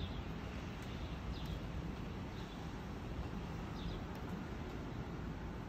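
Steady outdoor background noise, a low hiss and rumble, with a few faint, short high bird chirps scattered through it.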